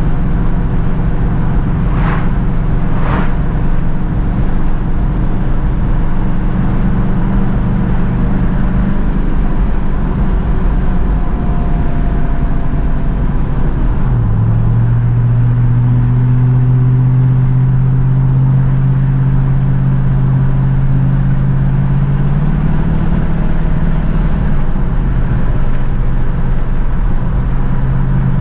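A 1967 Pontiac Firebird's 327 cubic-inch V8 with automatic gearbox running under way on the road, a steady engine drone. About halfway through the engine pitch drops suddenly, as at a gear change, then climbs and holds, running stronger. Two brief sharp sounds, about a second apart, come near the start.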